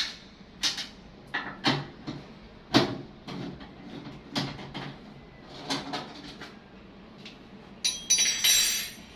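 Irregular knocks and clicks of metal parts being handled on a front-loading washing machine, about one a second. About eight seconds in comes a louder, ringing metallic clatter and scrape lasting about a second.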